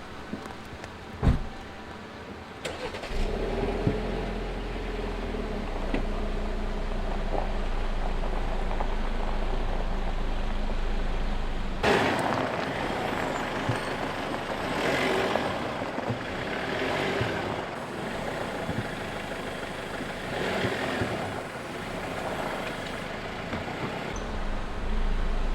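A vehicle engine running with a steady low hum, after a couple of knocks. There is a sharp thump about twelve seconds in.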